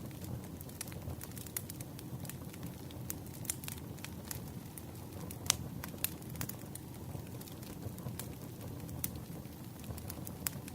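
Campfire crackling: a steady low rumble of burning wood with scattered sharp pops and snaps, the loudest pop about five and a half seconds in.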